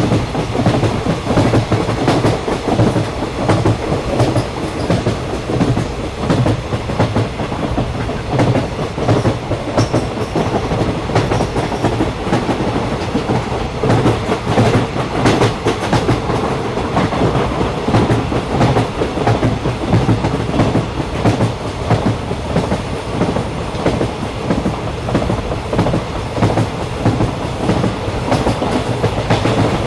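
A train running along the track: a steady rumble with a continual, uneven clatter of wheels over the rails.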